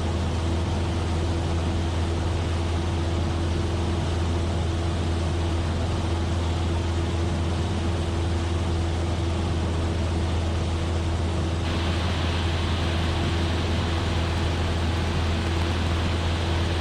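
Cessna 172F's six-cylinder Continental engine and propeller droning steadily in cruise flight. About twelve seconds in, a brighter hiss joins the drone.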